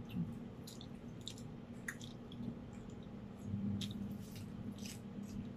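A person chewing a mouthful of butter-toasted French bread close to the microphone, with soft wet mouth clicks scattered through it, over a steady low hum.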